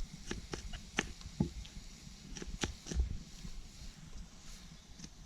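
A knife cutting a swede into chunks: a series of irregular crunchy knocks and clicks, most of them in the first three seconds.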